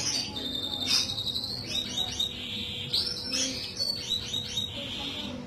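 Canaries chirping, with high rapid trills and runs of quick falling notes.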